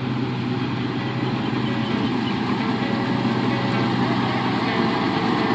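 Isuzu truck's diesel engine running steadily at idle, a constant low hum under a broad wash of noise.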